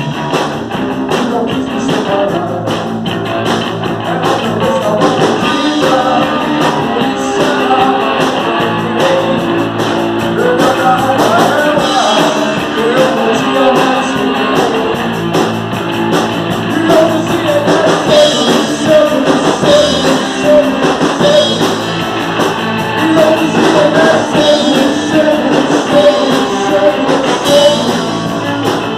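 A rock band playing live, with electric guitar and singing over a full band.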